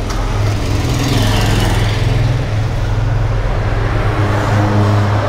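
Yamaha Raptor quad's engine running steadily.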